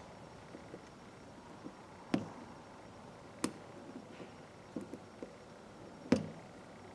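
Small metal ratchet parts being handled during disassembly: scattered light clicks and taps, with three sharper knocks about two, three and a half and six seconds in, the last the loudest.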